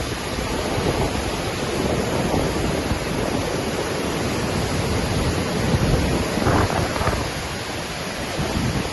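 Waterfall: a steady rush of falling water, dense and strongest in the low and middle range, swelling and easing slightly in loudness.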